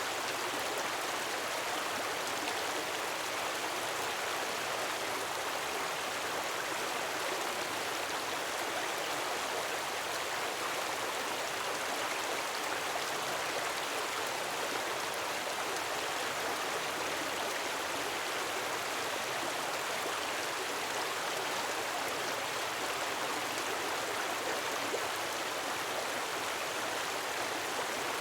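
Gentle waterfall: a steady, even rush of falling water with no swells or breaks.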